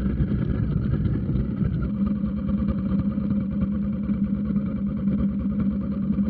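Motorcycle engine running steadily at an even pitch without revving, a constant low hum.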